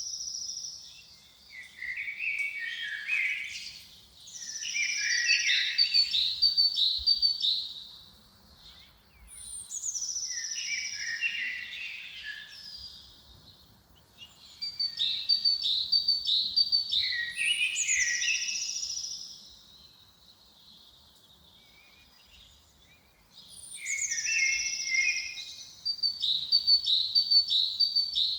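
A songbird singing the same short phrase over and over, with brief pauses between. Each phrase opens with a high falling whistle, then runs into quick clipped notes and lower warbling notes.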